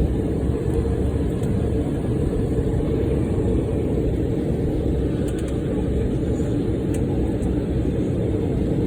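Steady low cabin rumble inside an Embraer E175 airliner rolling on the ground after landing, the engines running at idle along with the airflow of the cabin air. A few faint ticks come about halfway through.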